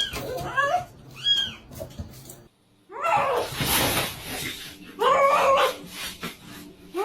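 Dog whimpering in a run of short, high yips. After a brief silence about two and a half seconds in, longer animal cries follow.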